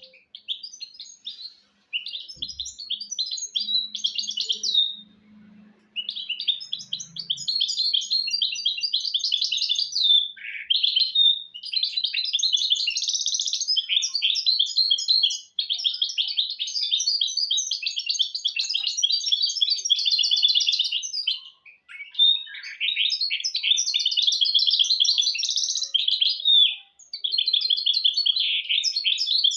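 A hybrid 'misto' mule finch (goldfinch × canary cross) singing a continuous song of rapid twittering trills and warbles, in long phrases of several seconds broken by brief pauses.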